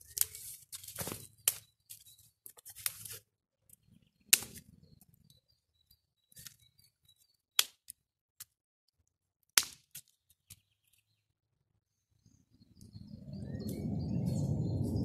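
Campfire crackling: a quick run of wood pops and snaps, then single sharp cracks every few seconds. Near the end a steady low rushing noise swells up.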